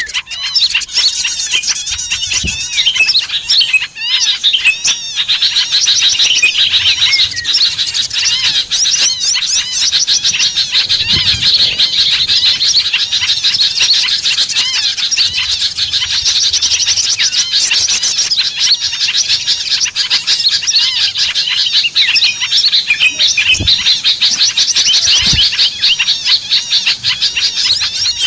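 A dense chorus of small birds chirping and twittering, many quick high calls overlapping without a break: a lure recording for drawing in small birds.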